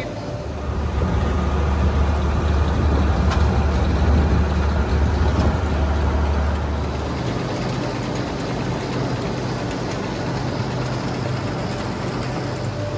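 Heavy farm machinery running: a tractor engine and the silage-chopping and bagging equipment, at a steady loud drone. About seven seconds in, the deep part of the drone drops away and a higher steady hum carries on.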